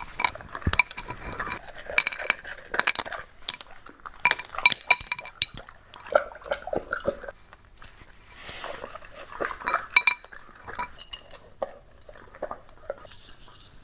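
Tableware clinking: a run of sharp clinks of dishes and cutlery, with short ringing tones after the strikes, thickest in the first half and again about ten seconds in.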